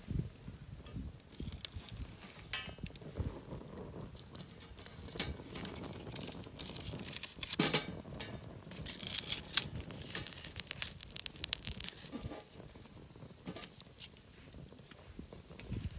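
Firewood burning in a campfire stand, crackling with many sharp snaps and pops. The pops come thickest in the middle, with one louder crack about halfway through.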